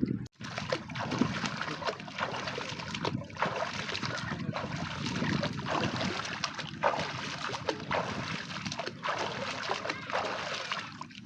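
Water splashing and sloshing close by as a person bathes in a river, with many quick irregular splashes. The sound drops out for a moment just after the start.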